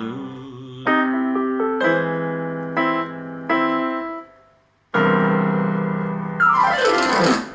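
Piano closing out a blues song: four struck chords that ring and fade, a brief pause, then a loud held chord and a fast run down the keys that dies away at the end.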